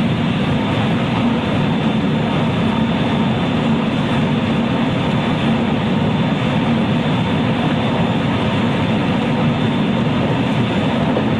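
Running noise inside the KuMoHa 223-3016 motor car of a JR West 223 series electric multiple unit travelling at steady speed: wheels rolling on the rails, with a steady low hum from the running gear.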